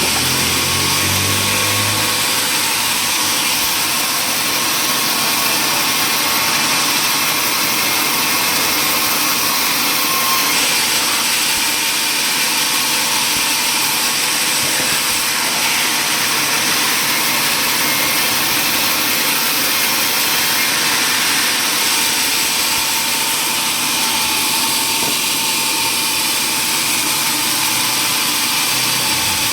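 Sawmill machinery running steadily, a loud, even, hiss-like machine noise; a low engine hum underneath fades out about two seconds in.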